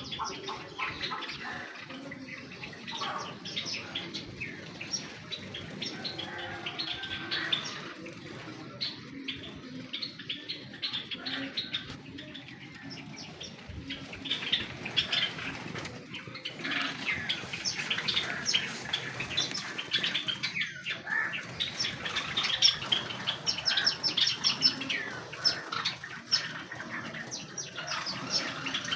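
A large colony of Java sparrows chirping together, with many short, high chips overlapping continuously, busier in the second half, and wings fluttering among them.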